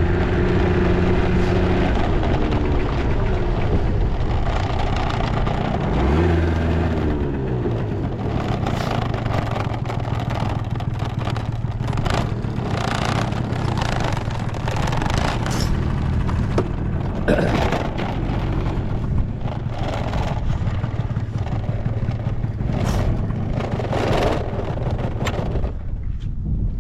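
Honda Live Dio AF34 scooter's two-stroke engine running, with a quick throttle blip about six seconds in that rises and falls in pitch. Many short knocks and clatters sound over the engine from about eight seconds on. The engine runs with no abnormal noise and revs up cleanly.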